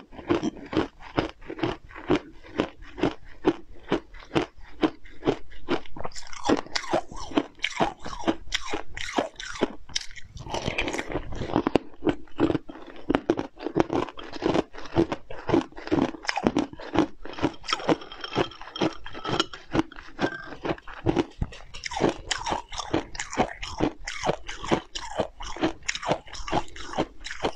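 Close-miked chewing and biting of a mouthful of food: a rapid, steady run of sharp mouth clicks and smacks, about two or three a second.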